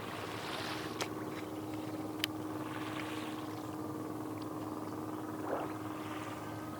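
Small waves washing on the shore in soft swells every few seconds, over a steady low hum, with a couple of sharp clicks.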